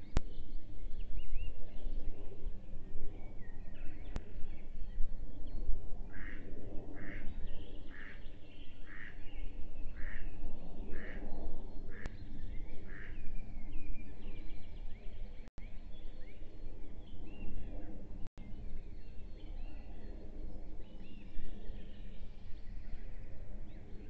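Small woodland birds chirping. Partway through, one bird gives a series of about nine evenly spaced calls, roughly one a second. A steady low rumble runs underneath.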